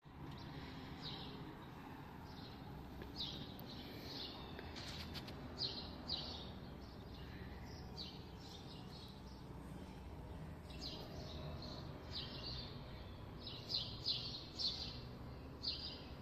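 Small birds chirping outdoors: short, high chirps in quick clusters throughout, over a steady low background rumble.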